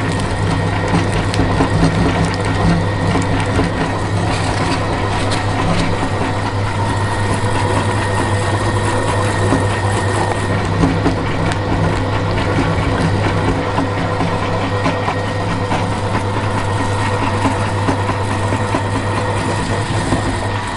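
Electric meat grinder running with a steady motor hum while grinding jelly candy, with a constant fine crackle of the candy being crushed.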